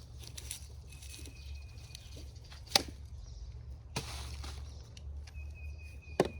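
Garden work with plastic flower bed edging: rustling and scraping, with two sharp knocks, the first under three seconds in and the second near the end. A thin steady high tone sounds for about a second, twice.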